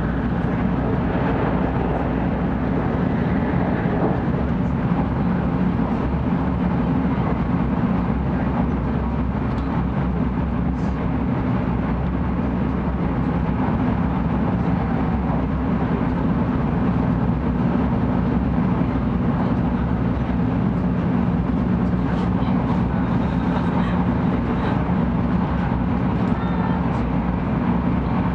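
Steady running noise inside a passenger car of a Tokaido Shinkansen 700-series train at speed: an even low hum and rush from the wheels and track, unbroken throughout.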